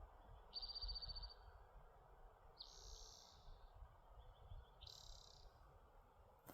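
A small bird calling three times, about two seconds apart: short, high, buzzy trills, the first a rapid even trill. A faint low rumble lies underneath.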